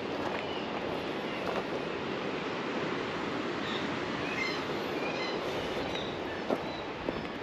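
Steady wind rushing over the microphone on an exposed clifftop, with a few faint high bird calls about four to five seconds in and a light tap near the end.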